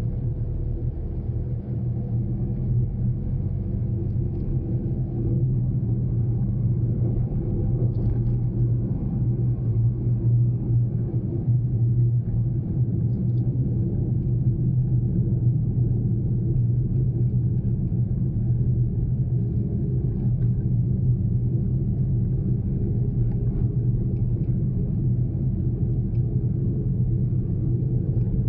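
Steady low drone of a Daihatsu Mira Cocoa kei car heard from inside the cabin while driving: its small three-cylinder engine humming along with road noise, holding an even pitch throughout.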